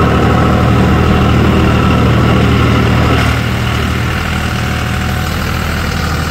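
Tractor engine running steadily, dropping a little in level about three seconds in.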